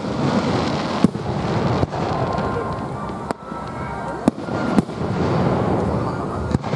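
Fireworks display: about five sharp bangs of bursting shells, spread unevenly over a continuous dense rumble of further bursts.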